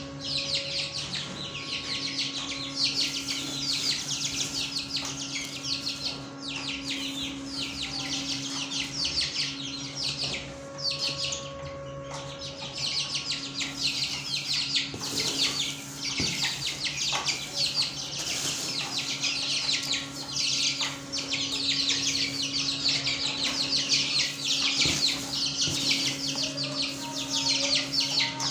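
Many small caged birds chirping and chattering together in a dense, continuous chorus, with a steady low hum underneath.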